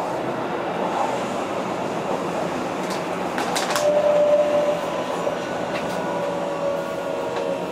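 Keihan 3000 series electric train running: a steady rumble of wheels on rail, with a few sharp clicks about three seconds in and a thin steady whine that appears about four seconds in.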